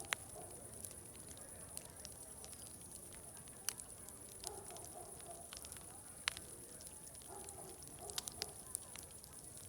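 Wood fire crackling, with sharp pops scattered through, over faint distant crowd chatter that comes and goes.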